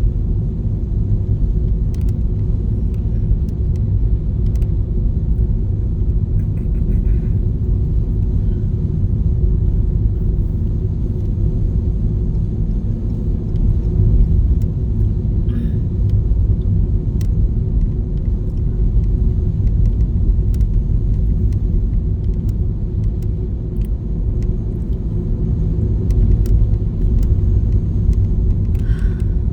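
Steady low rumble of a car heard from inside the cabin while driving, road and engine noise, with scattered faint clicks.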